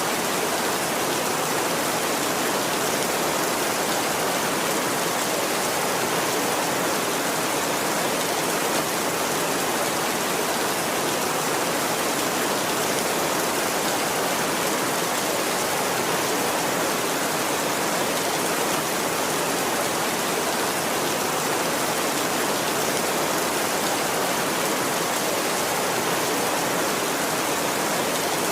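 Heavy rain falling steadily on a tin roof, an even unbroken hiss with no thunder.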